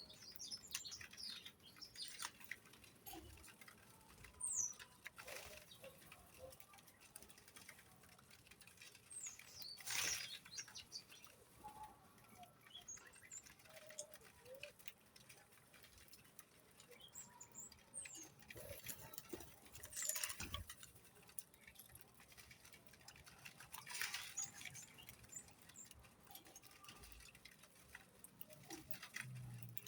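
Birds chirping off and on, with scattered soft pattering and a few short sharp sounds.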